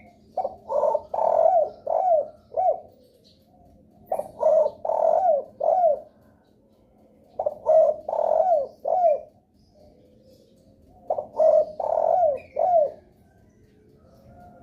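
Spotted dove (derkuku) cooing: four phrases, each a run of about five coos with a longer note in the middle, repeated every three to four seconds.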